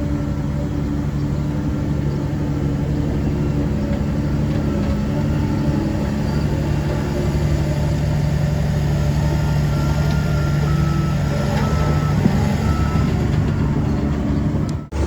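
DH17C3PRO bulldozer's diesel engine running steadily under load. The sound drops out briefly just before the end.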